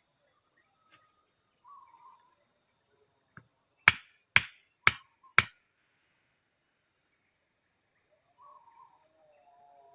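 Four sharp strikes in quick succession, about half a second apart, over a steady high-pitched drone of forest insects.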